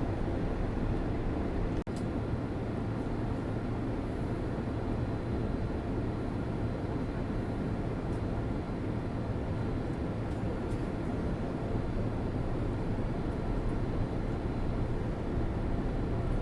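Steady engine and air noise of a passenger airplane heard inside the cabin, with a brief break about two seconds in.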